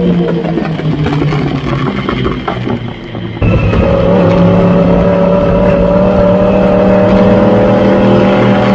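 Superbike engine heard from an onboard camera. For the first three and a half seconds its note shifts and eases; then the sound changes abruptly to a steady engine note held at constant revs.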